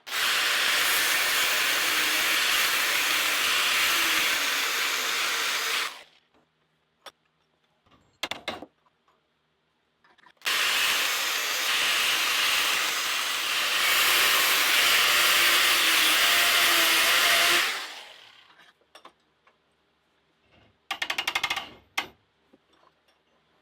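Angle grinder with a cutting disc slotting a steel railroad spike: two long cuts of about six and seven seconds, a harsh grinding hiss over the motor's whine, then a couple of short bursts. The slots go about three-quarters of the way through so the spike can be bent without heat.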